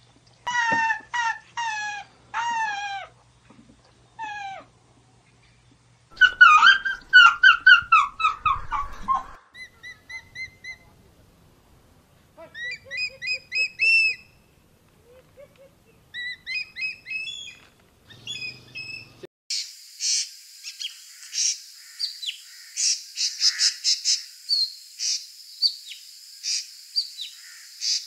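Birds calling in a run of separate stretches of whistled calls, many sliding down in pitch, some rising. About two-thirds of the way through, it changes to a denser, rapid high chirping over a steady hiss.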